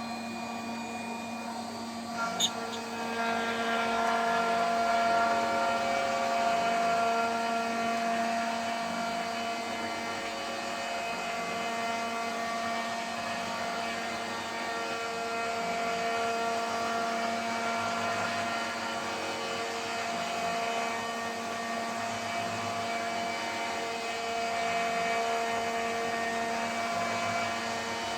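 CNC router spindle whining at speed as a 3 mm three-flute end mill cuts, with several steady tones that shift slightly as the cut moves along. A sharp tick comes about two seconds in, and the cutting gets louder from there.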